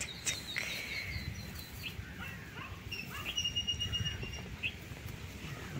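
Small birds chirping. A quick run of repeated high notes comes in the first two seconds, then a held whistled note and a few short chirps, over a low rumble.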